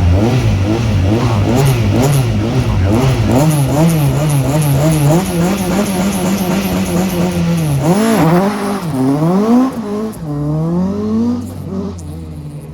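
Rally car engine held at high revs with the pitch wavering up and down, then accelerating away through several gear changes, each gear a rising pitch. It fades towards the end as the car pulls away.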